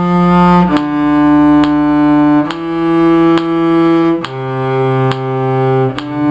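Cello playing slow, long bowed notes in a simple melody, the pitch changing about every second and a half to two seconds.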